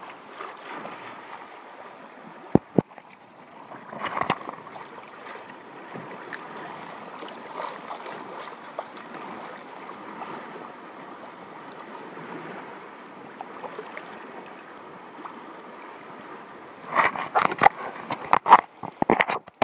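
Water splashing and rushing around a sea kayak under way, with a couple of sharp knocks a few seconds in and a run of loud splashes and knocks near the end.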